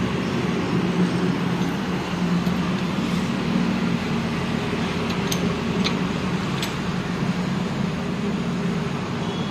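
An engine running steadily at an even speed, with a few light sharp clicks about five to seven seconds in.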